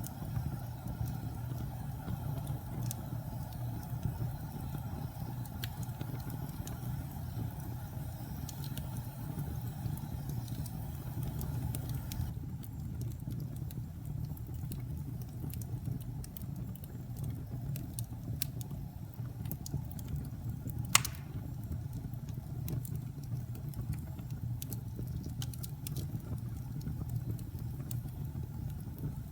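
Wood fire burning in a fireplace: a steady low rumble of flames with scattered small crackles and pops, and one sharp, loud pop about two-thirds of the way through.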